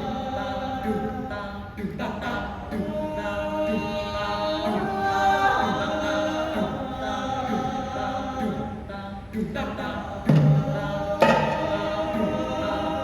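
A group of voices singing and chanting together in layered parts, many of them sliding in pitch. About ten seconds in, percussion strokes with low thumps come in over the voices.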